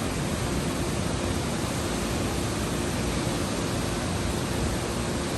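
Waterfall on the Big Sioux River, falling water rushing steadily.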